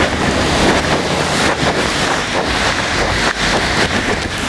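Heavy wind-driven rain pouring down, with wind buffeting the microphone in a loud, steady rush.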